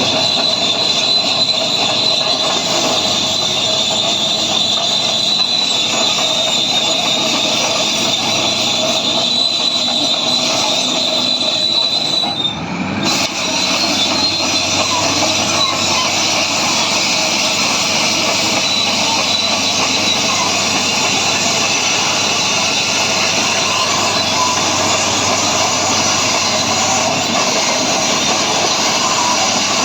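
Caterpillar bulldozer running, loud and steady, with a high-pitched squeal from its running gear that stops about twelve seconds in, after a brief dip in the sound.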